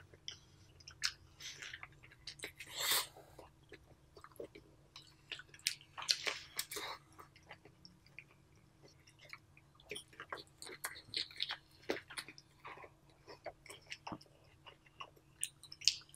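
Close-miked biting and chewing of sauce-dipped lobster meat: irregular mouth clicks and chewing sounds, with a few louder bites about 3 and 6 seconds in.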